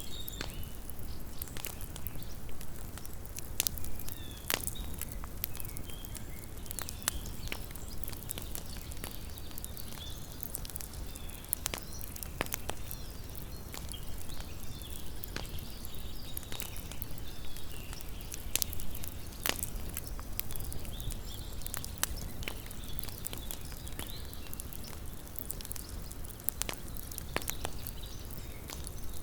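Small wood campfire crackling: irregular sharp pops and snaps, a few louder ones, over a steady low rumble, with a faint high twittering in the background.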